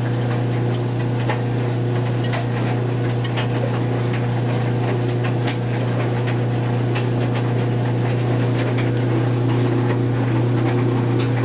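Washing machine spinning on its spin cycle: a steady low hum with a few higher tones, and scattered irregular ticks and rattles.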